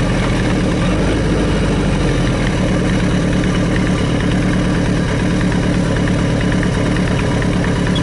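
Kawasaki Z1000Mk2's air-cooled inline-four engine, running on FCR carburetors freshly rejetted for spring (slow jet and needle clip changed), with a steady exhaust note. The note shifts about two seconds in, then holds steady.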